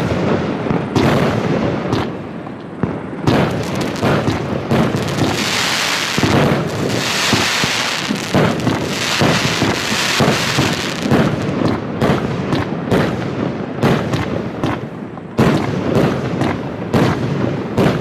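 A 25-shot fireworks cake (Funke Multicolor Polypen) firing, with a rapid series of bangs from shots and bursts throughout. From about five to eleven seconds in, a dense hiss runs under the bangs.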